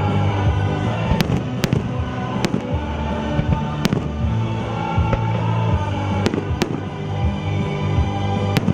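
Aerial fireworks shells bursting: about seven sharp bangs at uneven intervals, over music playing throughout.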